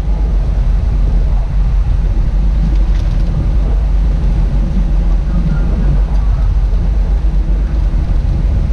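Steady low rumble of a large fishing boat under way, its engine running.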